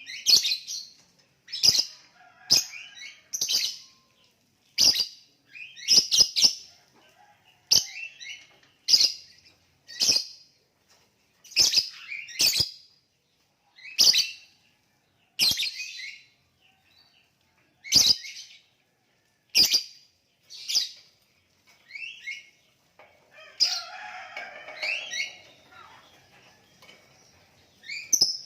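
Lovebird giving a string of short, shrill chirps, roughly one a second. A longer burst of chattering comes about two-thirds of the way through.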